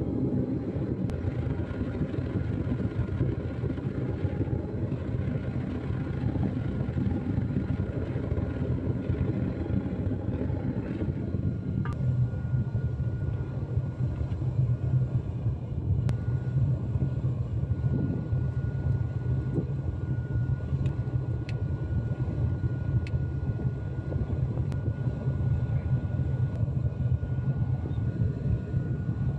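Gas-fired casting furnace with a fan-blown burner running steadily, giving a low, even rushing noise. A thin steady whine stands out from about twelve seconds in, with a few faint clicks.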